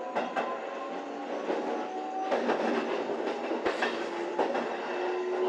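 Sanyo Electric Railway electric train running on the Aboshi Line, its wheels clicking irregularly over rail joints under a steady electric motor whine that rises slightly near the end.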